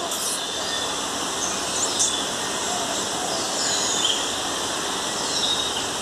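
Birds calling over a steady rush of running water: several high whistles that fall in pitch, a second or so apart, and a quick high chirp about two seconds in.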